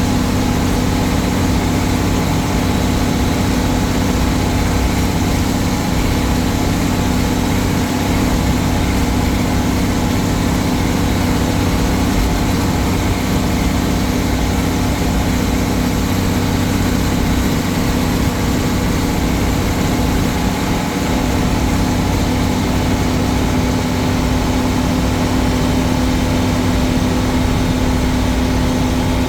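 Old Case tractor engine running steadily at an even speed while driving, with no change in pitch.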